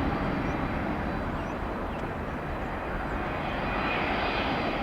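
Jet engines of an Airbus A330-200 airliner on the ground after landing: a steady, rushing noise that swells slightly near the end.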